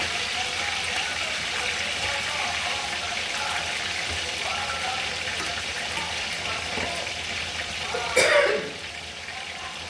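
Water running steadily from a kitchen tap. A person clears their throat loudly about eight seconds in, and the running noise drops right after.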